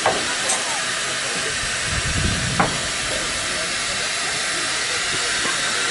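Steady hiss of steam from a steam locomotive, with a click near the start and a low thump and click about two and a half seconds in.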